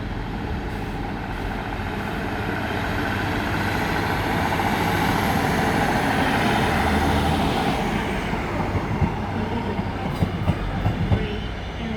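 A train running through the station: a rumble and hiss that grows louder to a peak about six or seven seconds in, with high tones sliding down in pitch, then easing off. A run of sharp clicks and clanks of wheels over rail joints follows near the end.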